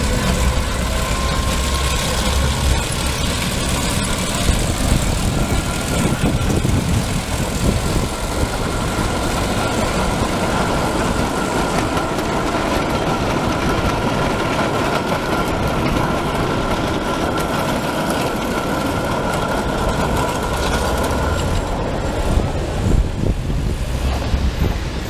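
Small 50 cm gauge park train's locomotive running past with its carriages, the engine running steadily and a steady high whine through most of the pass that fades out near the end. A car drives by in the last few seconds.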